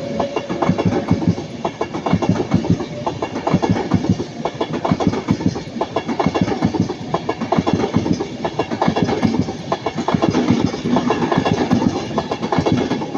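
Avanti West Coast Class 390 Pendolino electric train passing at close range, its wheels clattering in a fast, rhythmic clickety-clack over the rail joints and points.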